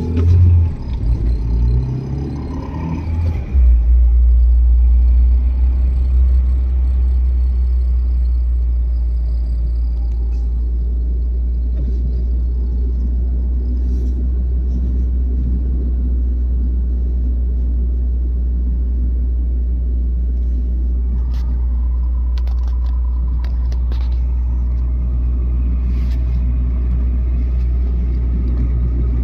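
Old Renault Twingo driving, a steady low rumble of engine and road noise. The sound is uneven for the first few seconds, then settles into an even drone, with a few faint clicks and rattles now and then.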